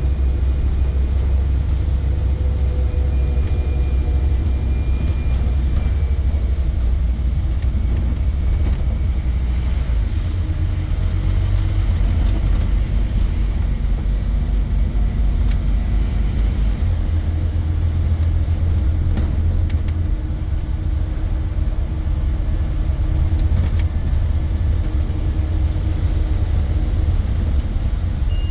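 Scania N230 bus's five-cylinder diesel engine running under way: a steady low rumble that shifts in pitch about ten seconds in and again around seventeen seconds.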